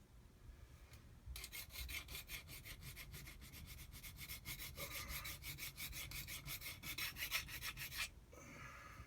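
Hand file worked in rapid back-and-forth strokes against a metal part of a Kawasaki SXR 800 jet-ski impeller pump, a dry rasping. The filing starts about a second in and stops abruptly about a second before the end.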